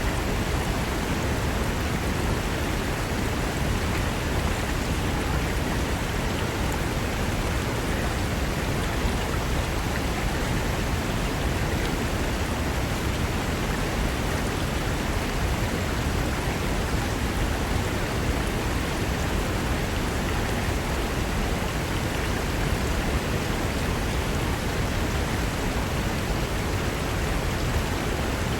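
Mountain river rushing over rocks: a steady, unbroken rush of water with no separate splashes or pauses.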